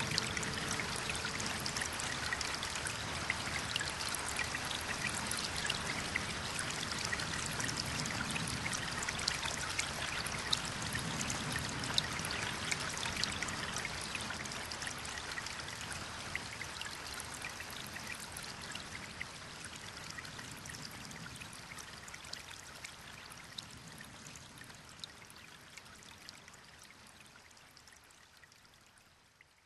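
Water falling and splashing steadily, with many small droplet splashes, typical of a waterfall. It fades out gradually over the second half.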